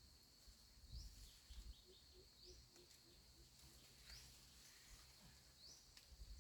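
Faint outdoor ambience: a steady high insect drone, with a short rising chirp repeated about every one and a half seconds, over faint low wind rumble.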